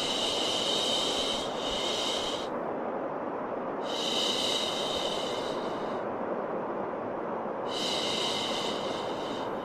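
Rhythmic 'shhh' shushing, repeated every few seconds and each about one to two seconds long, over a steady white-noise hiss: the sound used to settle a crying, colicky baby to sleep.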